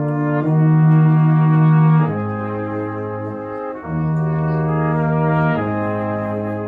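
Brass quartet playing slow sustained chords, the harmony changing every second or two.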